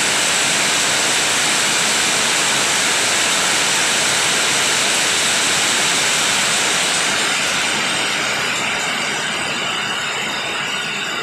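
Heavy rain pouring down in a steady, loud hiss, easing slightly in the last few seconds.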